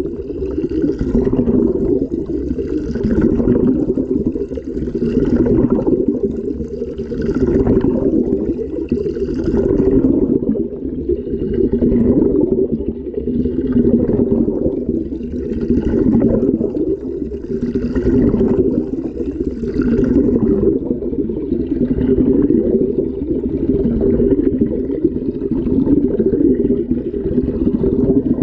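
Water sloshing and churning inside an LG washing machine drum as it tumbles through a wash cycle, heard from inside the drum. It swells and ebbs about once a second with each turn of the drum.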